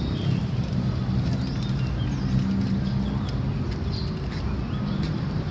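Steady low hum of motor traffic, with engines running.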